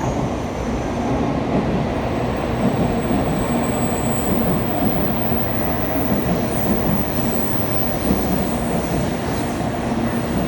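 Japanese train running with a steady rumble, and a faint thin high whine from the wheels coming and going.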